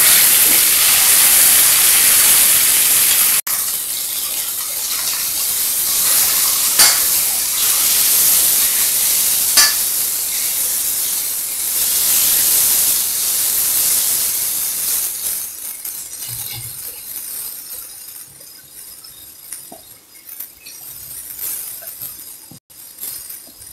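Onions, tomatoes and sliced garlic sizzling in gingerly oil in a stainless steel kadai while a steel ladle stirs in the spice powders, with a few clinks of the ladle against the pan. The sizzle dies down over the second half.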